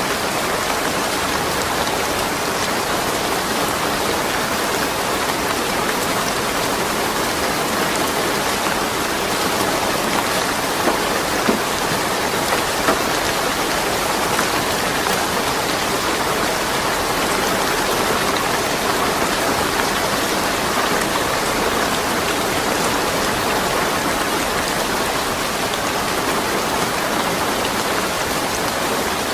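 Steady rain falling, a dense even hiss with scattered individual drops landing on a surface, without thunder.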